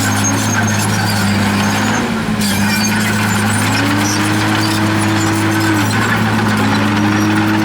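Komatsu D51PX bulldozer's diesel engine running under load, its pitch sagging and recovering twice as the blade pushes dirt, with high squeaks and clinks from the steel tracks.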